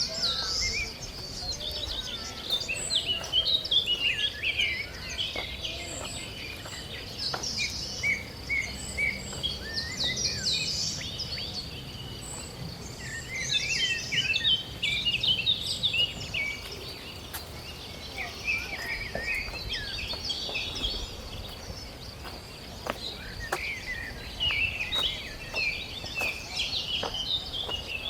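Many birds chirping and chattering in quick, overlapping calls, over a faint steady high insect buzz.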